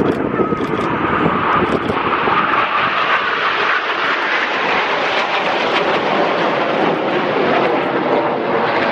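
Fixed-wing aircraft flying over, its engines making a loud, steady rushing noise with a faint whine in the first couple of seconds.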